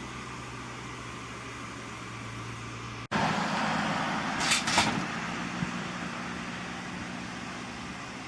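Large truck engine running steadily. About three seconds in the sound cuts abruptly to louder engine noise, with two short sharp hisses about a second and a half later.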